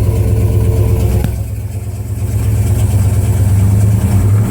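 A 454 big-block V8 in a 1984 Chevy K20, running on the choke just after a cold start, through Hedman headers and Flowmaster Super 10 mufflers. Its note sags about one and a half seconds in and builds back up.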